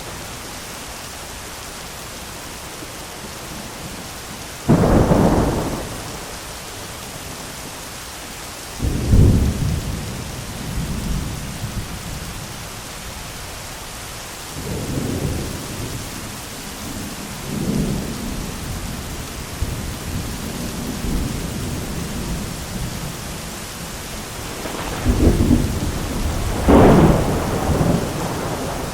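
Thunderstorm: steady heavy rain hiss with repeated thunder. A sharp thunderclap comes about five seconds in, another near nine seconds trails off into a rolling rumble, softer rumbles follow in the middle, and two loud cracks of thunder come near the end.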